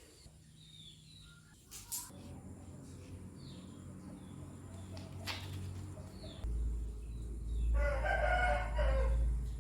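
A long bird call lasting about a second and a half near the end, over a low steady hum, with two faint clicks earlier.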